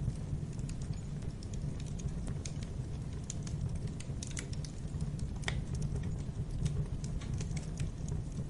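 Wood fire crackling in a fireplace: irregular sharp pops and snaps over a steady low rumble of the burning logs, with a louder pop about five and a half seconds in.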